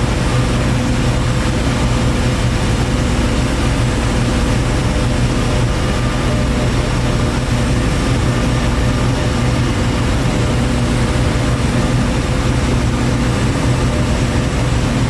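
Large power-plant generating machinery running steadily: a loud, unchanging drone with a low hum and a fixed higher whine.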